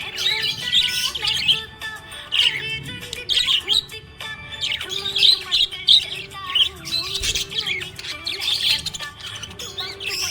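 Budgerigars chirping and warbling in rapid short calls, with background music carrying a low held melody underneath.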